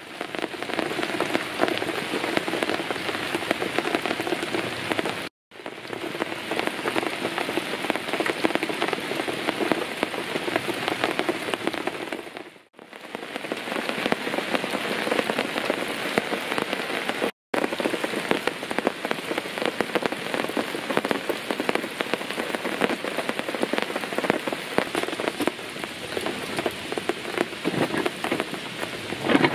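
Steady rain falling, with many close drops ticking on wet surfaces. The sound cuts out for a moment three times.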